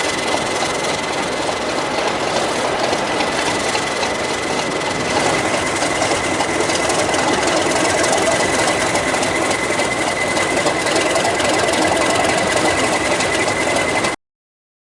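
Class 37 diesel locomotive's English Electric V12 engine running steadily, with a steady high whine above it. The sound cuts off suddenly near the end.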